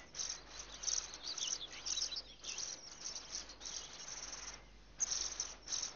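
Small birds chirping in quick, high twittering phrases of short gliding notes, with a brief pause late on.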